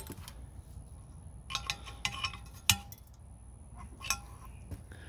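Brass parts of a vintage gas blow torch lamp clinking and tapping as it is handled: a few light metallic clicks, then a cluster of short ringing clinks in the middle, the sharpest at the end of that cluster.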